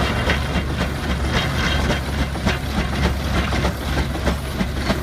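Antique steam traction engine running, its exhaust chuffing in a steady rhythm of about three beats a second over a low rumble.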